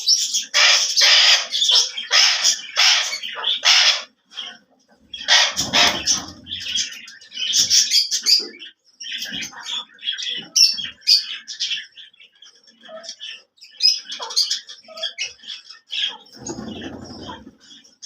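Alexandrine parakeet screeching: a rapid run of loud, harsh calls for the first few seconds, then shorter squawks and chirps. Two low bumps come in among the calls, one about six seconds in and one near the end.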